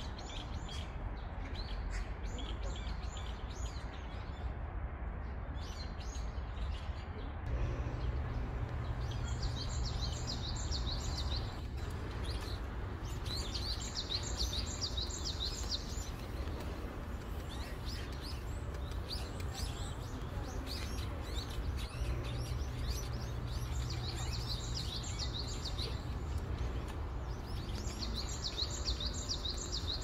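Songbirds singing: several bursts of fast, high trilled notes, each lasting two to three seconds, with scattered chirps between them, over a steady low rumble.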